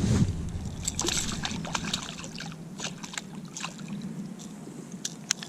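Handling noises aboard a fishing kayak: a low wind rumble on the microphone at first, then scattered clicks, knocks and light water splashes.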